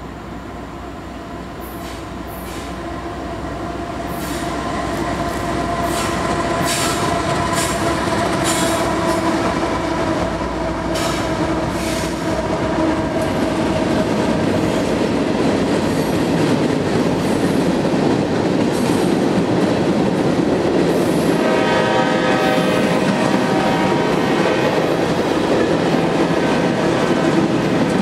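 Freight train passing close by: diesel locomotives growing louder as they approach and go by, with steady tones from the approaching units, then tank cars and covered hoppers rolling past with wheels clicking over rail joints. A brief squeal comes from the wheels a few seconds after the locomotives pass.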